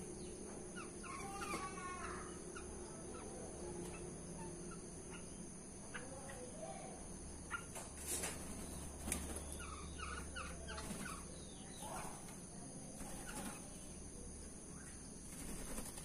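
Birds calling: short scattered chirps and calls, with a quick run of notes about a second and a half in and a cluster of calls around the middle. A faint steady low hum lies underneath.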